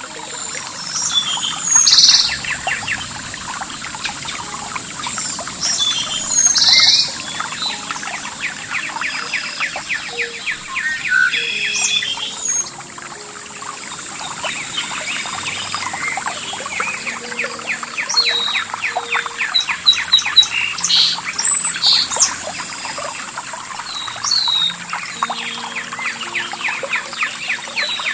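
Several birds chirping and singing over steadily trickling water, with a few louder calls about 2, 7 and 21 seconds in. Faint held low notes sit underneath.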